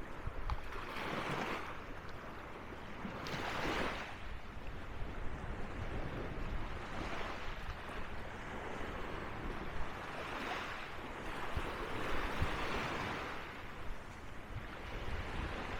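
Small sea waves breaking and washing up a sandy beach, swelling and fading every few seconds.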